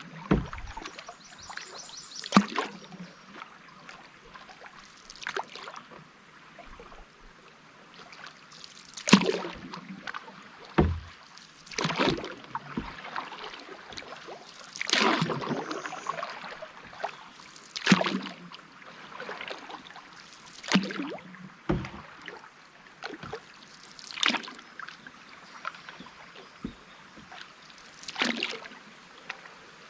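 Canoe paddle strokes: the blade dips and pulls through river water in splashy strokes about every three seconds, with an occasional low knock.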